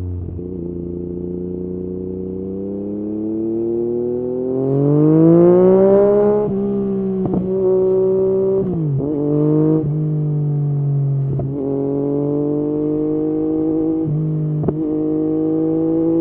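Yamaha MT-09 three-cylinder engine through an Akrapovič exhaust, running steadily under way, then accelerating with a rising note. The pitch drops sharply at several gear changes and climbs again after each one.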